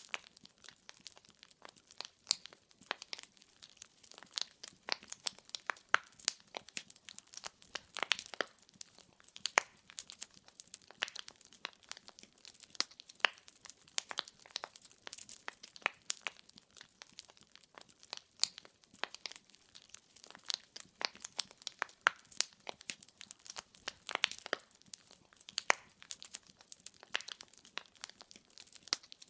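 Wood fire in a fireplace crackling: irregular sharp pops and snaps from the burning logs, many a second and unevenly spaced, over a faint hiss.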